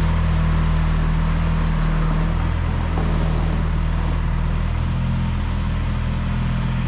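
A 1974 John Deere 2030 tractor engine running steadily, its low note shifting slightly partway through.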